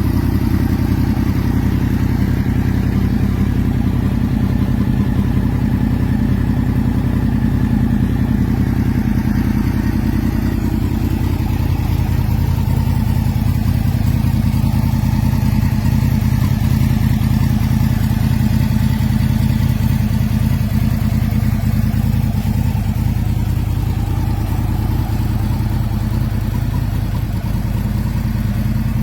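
Yamaha YZF-R1's crossplane inline-four idling steadily through a Leo Vince SBK aftermarket exhaust, with an even, uneven-firing-free steady note and no revs.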